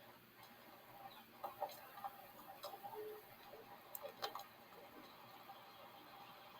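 Faint scattered clicks and short soft blips over a low background hiss, busiest between about one and a half and four and a half seconds in.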